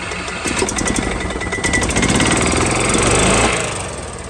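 A small engine running with a fast, even pulsing chug, growing louder toward the middle and then fading away near the end.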